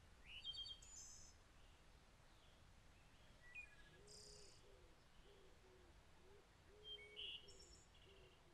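Faint birdsong over quiet outdoor ambience: several short high chirps and trills, scattered through. In the second half a run of low, evenly repeated hooting notes, about two a second, runs beneath them.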